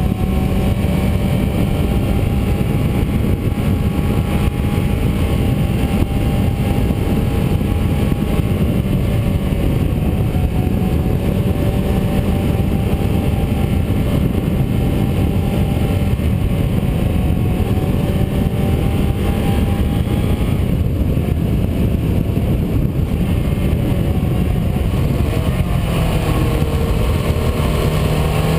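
Car engine running under way, its note wavering gently over a heavy rumble of road and wind noise. Near the end the engine note drops and then climbs again.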